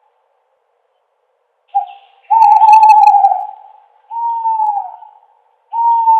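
An owl hooting: after a short pause, a brief note, then three long, level hoots, the last two sliding down in pitch as they end.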